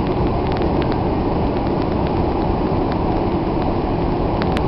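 Blizzard wind blowing steadily across the microphone as a continuous low rumble, with scattered sharp ticks.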